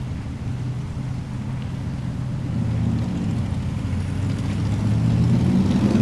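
A car engine running at low speed close by, growing steadily louder as the car moves slowly past.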